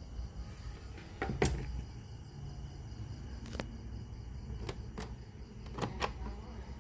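A scattered series of sharp clicks and light knocks, about seven in all and bunched in pairs, over a steady low hum.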